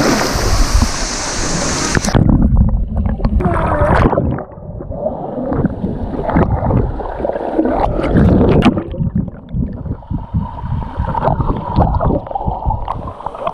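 Rushing water of a waterfall for about two seconds, then an abrupt change to close, muffled water sloshing and gurgling with irregular knocks and bumps.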